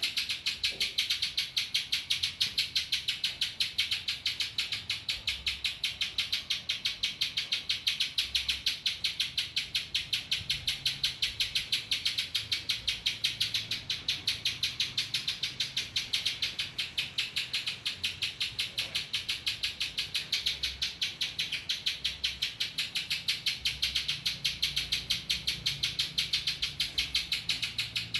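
Pinjantung (spiderhunter) singing a long, unbroken run of rapid, evenly repeated high chipping notes, about seven a second, in the style of a ciblek (bar-winged prinia).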